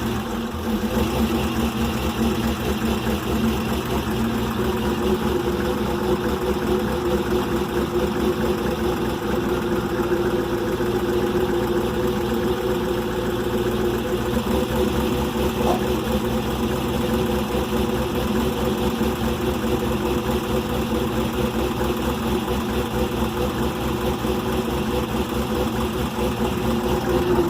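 2001 Camaro SS's LS1 V8, fitted with a new cam and heads, running steadily with no revving. The owner believes it has major exhaust leaks.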